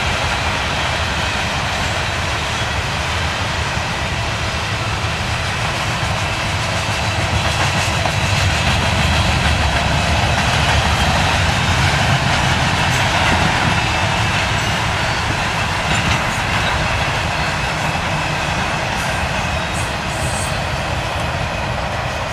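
Freight cars of a mixed train rolling steadily past: a continuous rumble and rush of steel wheels on rail, with some clickety-clack.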